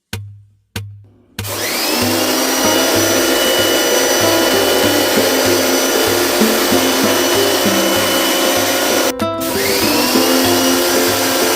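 High-pressure washer's electric motor pump starting with a rising whine, then running steadily for washing out the air conditioner; it stops briefly about 9 seconds in and spins up again. Background music with a steady beat plays underneath.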